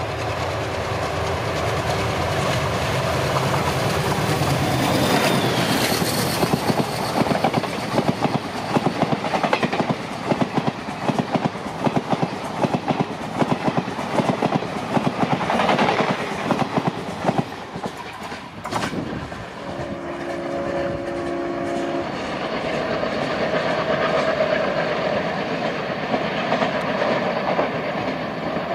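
Indian express train hauled by a WDM-3A diesel locomotive passing at speed. A steady drone gives way after about five seconds to a long run of rapid clickety-clack from the coach wheels over the rail joints. A brief steady tone of a couple of seconds comes about two-thirds of the way through.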